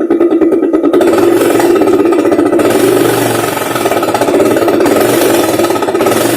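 Honda Activa scooter's single-cylinder four-stroke engine running loud through a modified silencer, with a fast, hard rattling exhaust beat. The exhaust has been altered to imitate a KTM or Royal Enfield Bullet motorcycle.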